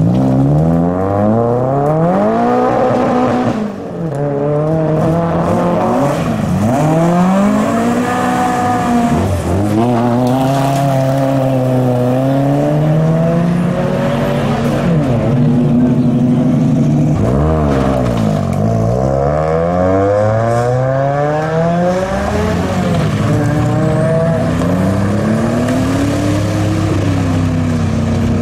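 Modified car engines revving hard as cars accelerate away one after another, the engine note climbing and dropping again and again with each rev and gear change.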